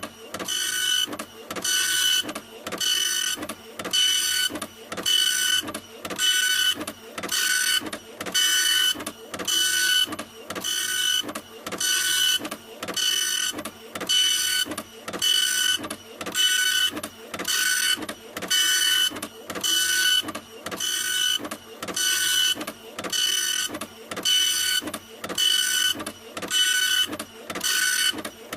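Printer running in a steady rhythm: a whining mechanical pass about once a second, each followed by a short break.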